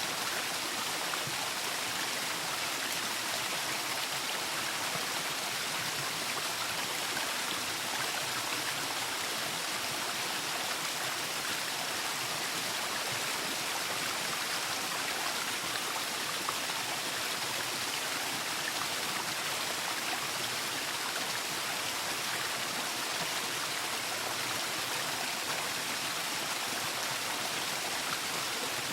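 Waterfall: water falling and splashing steadily, a constant hiss weighted toward the higher pitches.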